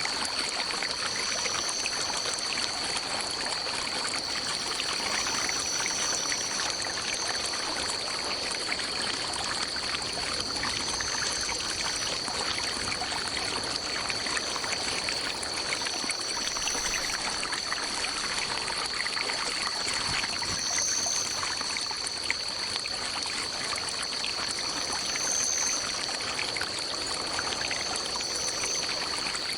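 A forest stream flowing steadily, with a continuous high-pitched drone over it and short, higher notes that come and go every second or two.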